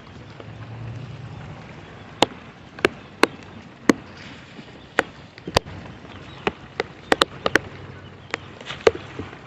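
Heavy storm rain with sharp, irregular taps of large drops hitting close to the microphone, over a steady rush of rain and wind.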